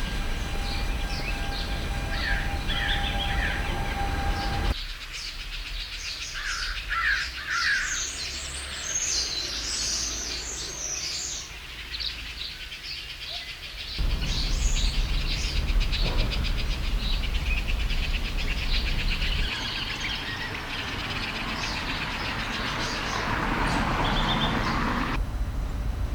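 Small birds chirping and twittering in short repeated calls, over a low outdoor rumble; the background changes abruptly several times, as several outdoor recordings are cut together.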